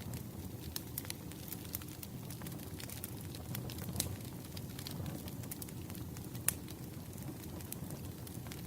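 Campfire crackling: a steady low rumble of burning with irregular sharp pops and snaps, two louder pops about four and six and a half seconds in.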